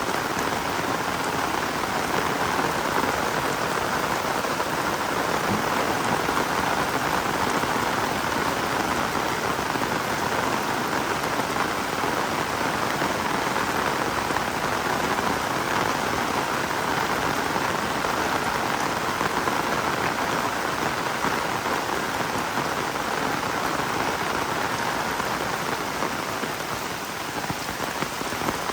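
Heavy rain falling steadily: a dense, even hiss of raindrops striking the ground and surfaces.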